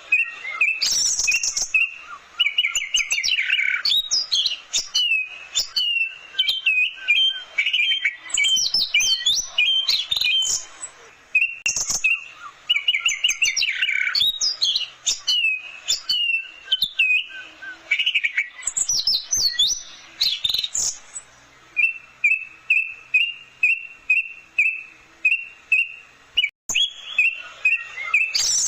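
Orange-headed thrush (anis merah) singing a varied song of quick whistled phrases, sweeps and trills, then, in the second half, a run of short repeated notes about two a second.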